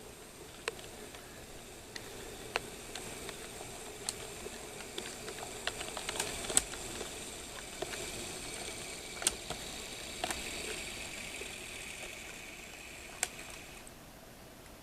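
HO scale model train running on the layout: a high electric-motor whine that stops near the end, with irregular sharp clicks of wheels over rail joints.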